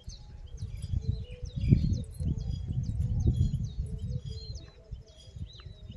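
Small birds chirping again and again in short calls, over an uneven low rumble on the microphone.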